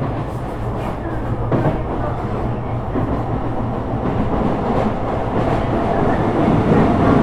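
Sotetsu 12000-series electric train running, heard from inside the car: a steady rumble of wheels on rail with a few clicks over rail joints, growing a little louder near the end.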